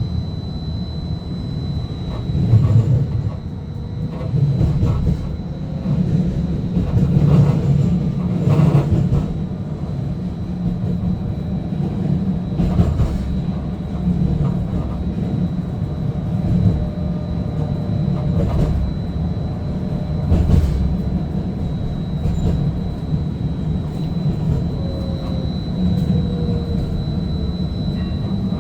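Seattle First Hill Streetcar running along its track, heard from inside the car. A steady low rumble is broken by scattered knocks from the wheels over the rails, with a thin, steady high whine throughout. A falling tone comes in near the end.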